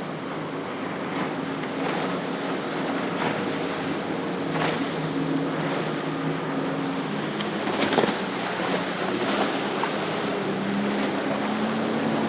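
Motorboat engines droning as a sport-fishing boat runs through choppy inlet water, over a steady wash of waves and wind, with a few sharp splashes, the loudest about eight seconds in.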